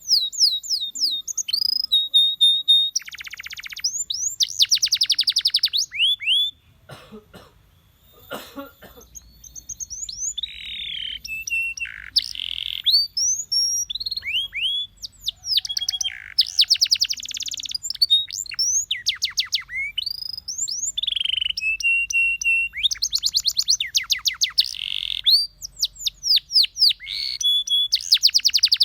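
Domestic canary singing: a long song of rapid repeated downward-sweeping notes and fast buzzing trills, broken by a pause of about two seconds near the quarter mark before the song resumes.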